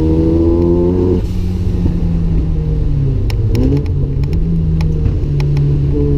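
Turbocharged Mazda RX-7 rotary engine pulling with rising revs, then lifting off about a second in with a brief hiss. For several seconds it runs lower and unevenly, with scattered sharp clicks. Near the end it comes back on throttle and the revs climb again.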